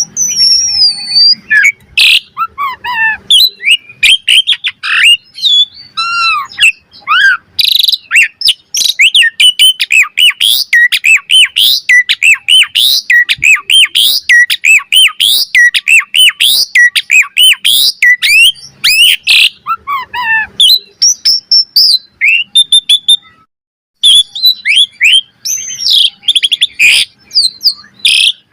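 Asian pied starling (jalak suren) in full, continuous song: a fast, varied run of rising and falling whistles, chirps and harsher squawking notes, barely pausing. The song breaks off for a moment near the end, then resumes.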